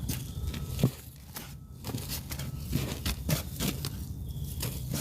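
Crinkling and rustling of materials being handled, with scattered light clicks and a sharper knock about a second in.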